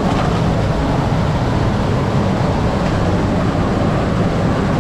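Steady rush of fast-flowing creek water, loud and unbroken, with most of its weight low in pitch.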